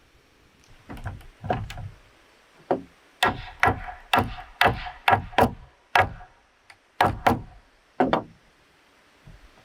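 Hand tool striking bamboo in a run of about a dozen sharp knocks with a short hollow ring. There are a few blows in the first two seconds, then a quicker string about two a second, then a last few near the end.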